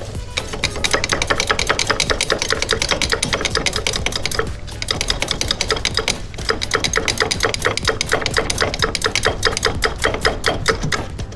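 Ratchet wrench clicking rapidly and evenly, about nine clicks a second, in runs with brief pauses, as bolts are run in.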